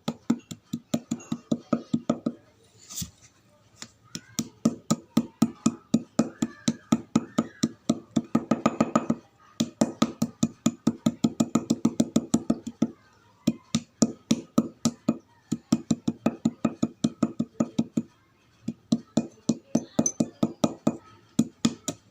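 Chalk being crunched by chewing close to the microphone: a fast run of crisp crunches, about five a second, broken by a few brief pauses.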